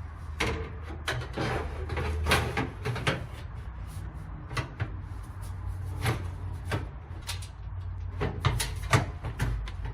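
Dryer parts being worked into place by hand: a string of irregular clunks, knocks and clicks, the loudest near the end as a part goes home.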